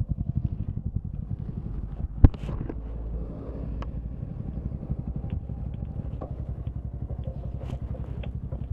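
Motorcycle engine running while riding, its exhaust pulses coming in a fast, even beat. A single sharp knock a little over two seconds in.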